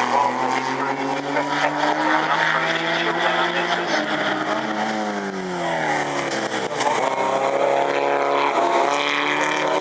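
Racing sports car engines running hard on the circuit. The engine pitch climbs for about four seconds, falls steeply around the middle and then climbs again.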